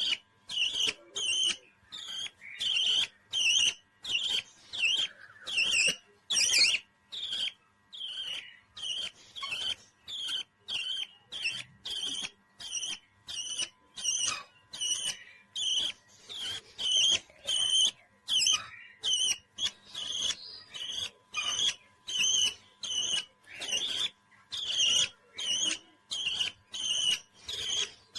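Parrot calling in a steady run of short, sharp chirps, about one and a half a second, kept up without a break.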